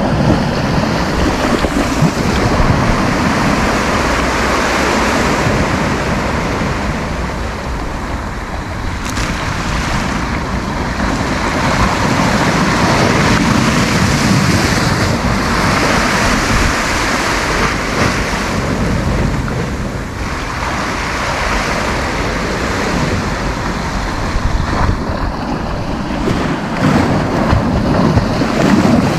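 Sea surf breaking and washing up the beach, its rush swelling and easing every few seconds, with wind buffeting the microphone.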